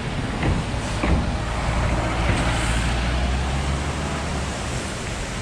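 Motor vehicle running: a steady low engine hum under broad road and wind noise. The low hum eases off about four seconds in.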